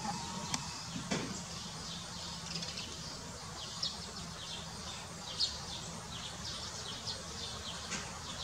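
Birds chirping: many short, high chirps coming in quick runs over a steady outdoor hiss.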